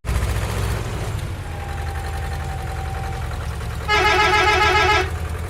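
Vehicle engine idling with a steady low hum, then a horn sounding once for about a second near the end.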